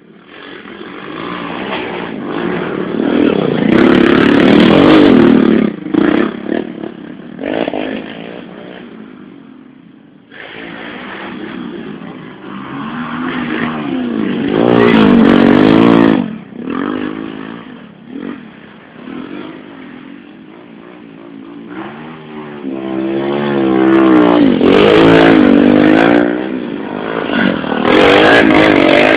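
110cc motorcycles racing past one after another, engines swelling up loud and fading as each goes by, about four times, with pitch shifting up and down as they rev and pass.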